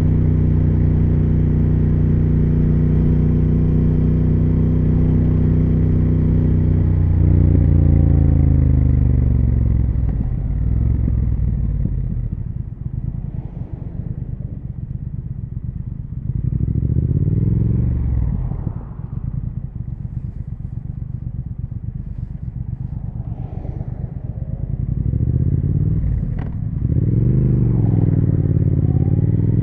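Triumph Speed Twin 1200's parallel-twin engine and exhaust under way: a steady cruise for several seconds, then the throttle rolls off and the pitch falls. Short throttle openings bring the pitch up and down twice, and near the end a brief dip with a click is followed by the engine pulling up in pitch again.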